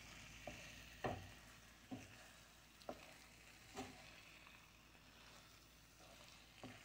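Plant-based egg scramble sizzling faintly in a skillet while a wooden spatula stirs and scrapes it. There is a scrape about once a second for the first four seconds, then a pause, then one more near the end.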